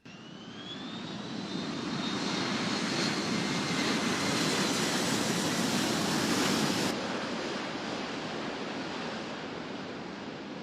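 Jet aircraft engine noise: a rushing roar with a thin whine rising in pitch over the first couple of seconds, swelling to its loudest around the middle and then easing off. The highest hiss drops away abruptly about seven seconds in.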